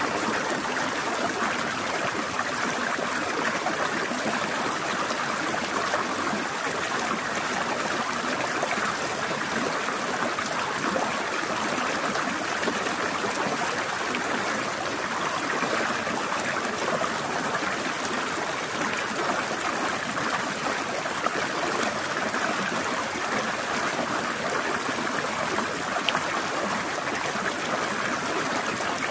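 Forest stream running steadily over rocks, a continuous trickling and gurgling rush of water without pause.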